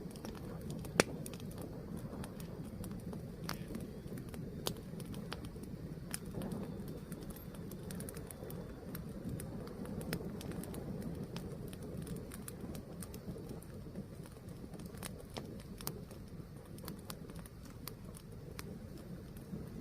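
Fire burning with a steady low rumble and scattered sharp crackles, including one loud pop about a second in.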